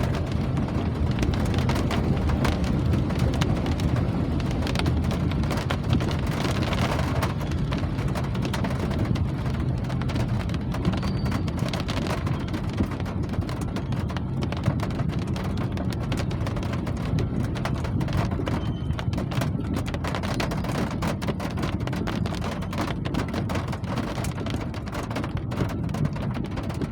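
Rain falling steadily, with many close drop ticks over a continuous low rumble.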